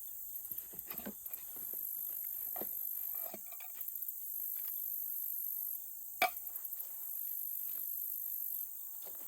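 Insects calling in high, shrill phrases, each a long buzz of about a second and a half followed by a quick run of short pulses, repeating about every three seconds. Light clicks and knocks of gear being handled come through now and then, with one sharper click about six seconds in.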